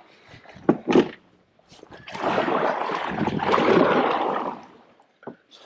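Two sharp knocks, then about three seconds of water splashing and sloshing beside a kayak.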